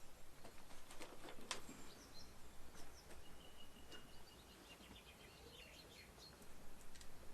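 Faint outdoor ambience: scattered sharp clicks and knocks in the first two seconds, then a few short, high chirps in the middle.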